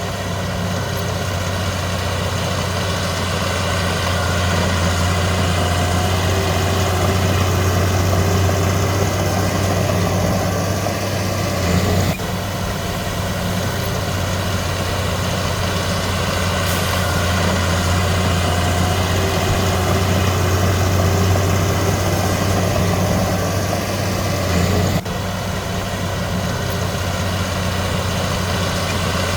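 Heavy diesel engine of earthmoving machinery running steadily with a low, even drone. The sound shifts abruptly about twelve and again about twenty-five seconds in.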